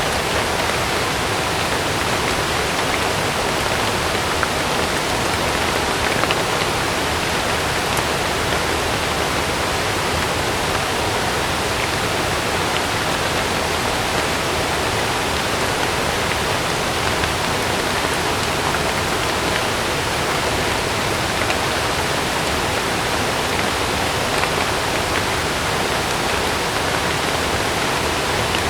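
Heavy rain falling steadily on a camping tent, an even, unbroken hiss of water.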